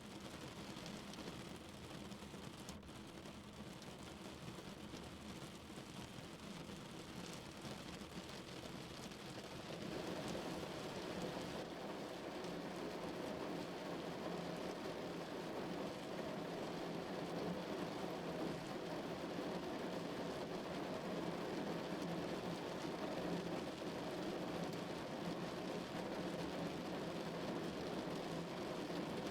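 Steady rain falling on a car's roof and windows, heard from inside the car. It grows louder and heavier about ten seconds in.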